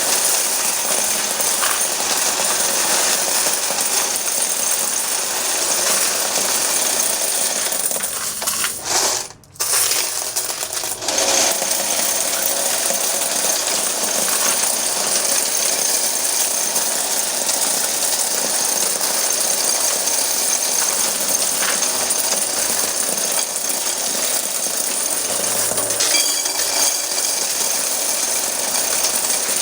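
Electric coin counting machine running with a stream of quarters clattering through it, a steady dense rattle. It drops out briefly about nine seconds in.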